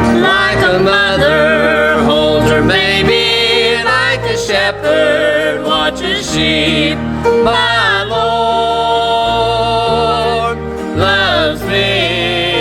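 A gospel song in a country style: a singing voice with strong vibrato over instrumental accompaniment with steady bass notes that change every second or so.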